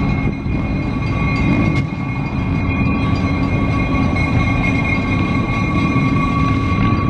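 Train passing close by: a steady, loud rumble of wheels on rail with a thin steady whine above it.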